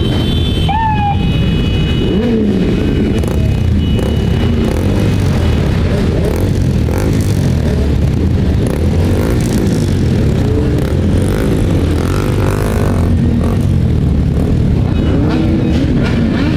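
Several motorcycle engines running together, their pitch rising and falling as they rev and ease off.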